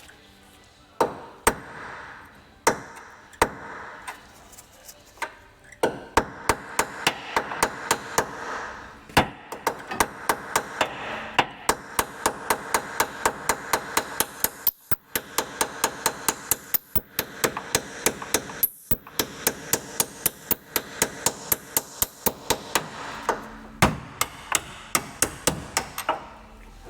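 Hammer striking a steel punch with metallic ringing blows, working a pin loose on a Humvee. A few separate strikes come first, then a steady run of about two to three blows a second with a couple of short pauses.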